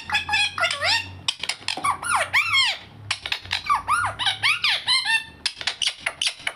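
Indian ringneck parrot chattering in a rapid run of shrill squeaky calls whose pitch swoops up and down, several calls a second.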